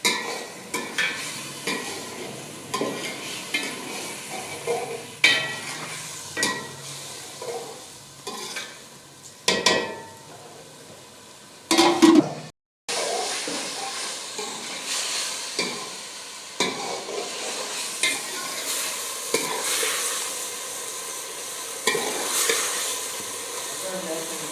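A spoon stirring and scraping in a cooking pot, with repeated clinks and knocks, over food sizzling as it fries. A little past halfway the sound cuts out briefly, and after that the sizzling is steadier with fewer knocks.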